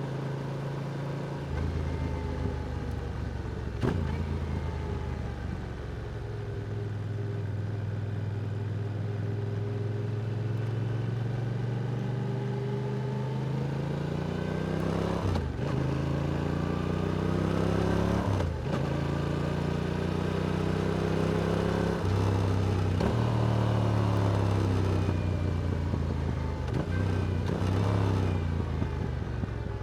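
Yamaha R7's parallel-twin engine through an Akrapovic exhaust, heard from the bike while riding. The note holds fairly steady, then revs up and shifts up twice in quick succession past the middle, each shift a short break followed by a lower pitch, and then pulls on at a higher, steady pitch.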